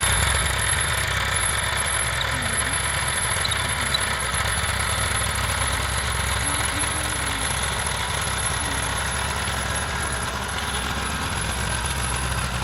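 Eicher 480 tractor's diesel engine running steadily.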